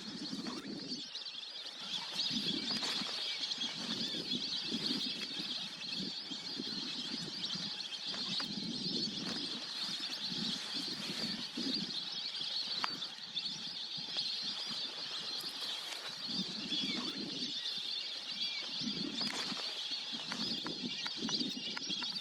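A large flock of waterbirds calling together: a dense, continuous high chatter with many lower calls repeating through it.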